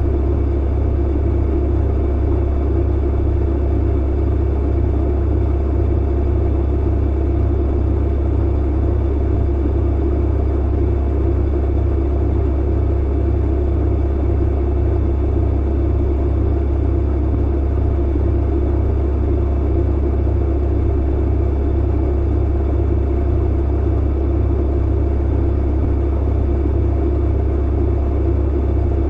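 Clothes dryer running: a steady, unchanging low hum and rumble.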